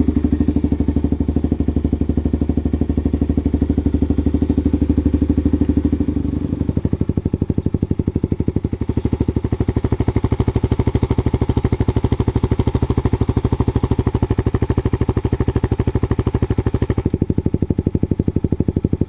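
Single-cylinder engine of a 2012 Kawasaki KLX dual-sport motorcycle running on an aftermarket exhaust with the silencer removed, idling at a fast idle with a steady, even firing beat. Its tone shifts about a third of the way in, turns harsher a few seconds later, and eases back near the end.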